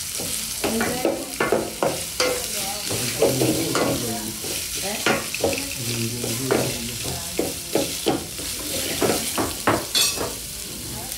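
Onion and garlic frying in hot oil in a pot, with a steady sizzle. A spoon scrapes and knocks against the pot at irregular intervals as the onion is stirred.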